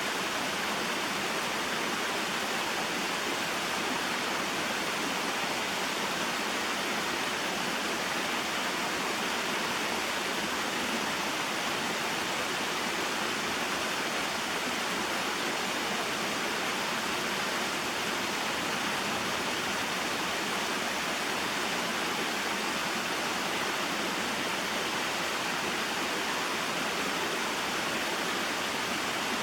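Small mountain waterfall and stream: a steady, even rush of falling and flowing water.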